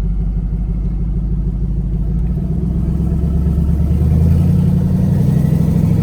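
Twin-turbo 4.8-litre LS V8 in a Ford Ranger running low at first, then picking up speed about two seconds in, its note rising in pitch and growing louder.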